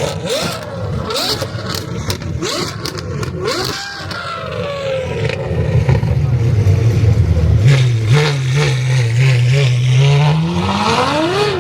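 Car engines at a car meet, one running at a low, slightly uneven idle that then revs up, rising in pitch, near the end.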